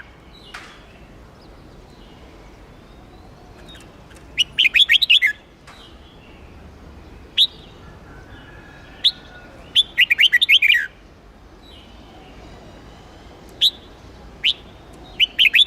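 Red-whiskered bulbul singing: three short bursts of rapid chirping notes about five seconds apart, with single sharp notes between them.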